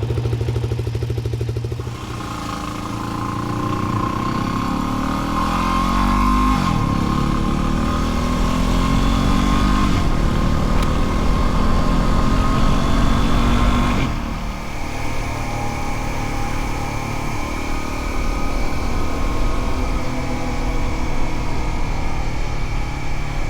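Dual-sport motorcycle engine pulling away and accelerating, its pitch rising through the gears with upshifts about six and a half and fourteen seconds in, then running steadily at cruising speed.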